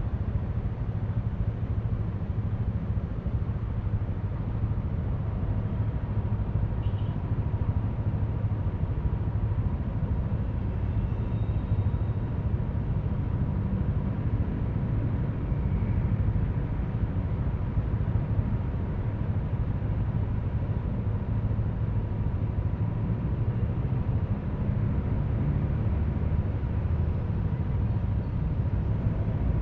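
Yamaha Aerox V3 scooter's single-cylinder engine running steadily with road noise, under a faint steady high whine.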